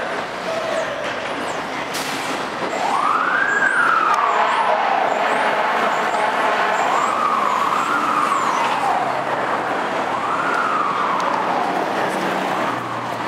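Fire engine siren wailing, its pitch rising and falling in slow sweeps about every three seconds, over the noise of the truck and street traffic.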